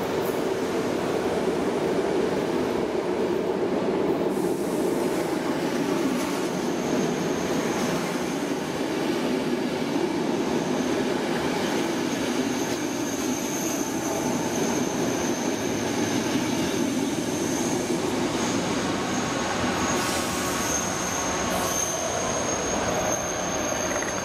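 SNCB electric multiple unit running past along the platform, a steady rumble of wheels on rail. A thin, high-pitched squeal joins about a quarter of the way in and grows stronger near the end.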